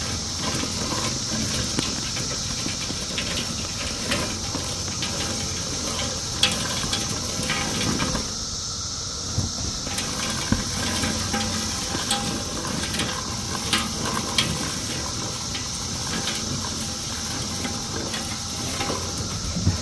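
Push lawn sweeper's rotating brushes rolling over grass: a steady rushing with scattered clicks and rattles as dead cicadas are swept into the hopper. It dips briefly about eight seconds in. A steady high insect drone, the cicada chorus, runs underneath.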